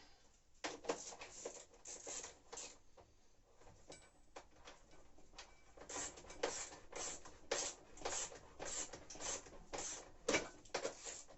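Irregular clicks, knocks and scraping rustles of hands handling washing-machine parts during reassembly, sparse at first and busier from about halfway through.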